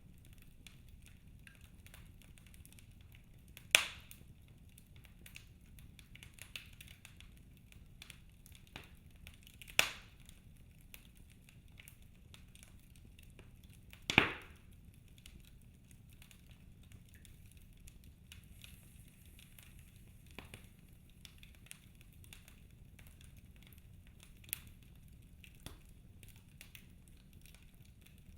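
Wood fire crackling in a fireplace: a steady low hiss with many small scattered ticks, and three sharp loud pops, about four, ten and fourteen seconds in.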